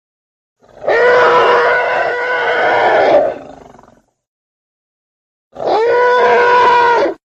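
Elephant trumpeting: two calls, the first about three seconds long and the second shorter, each holding a fairly steady pitch and cutting off abruptly.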